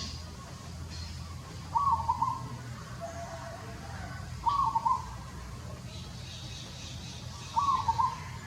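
An animal calling three times, each a short stuttering call about three seconds apart, over a steady low rumble.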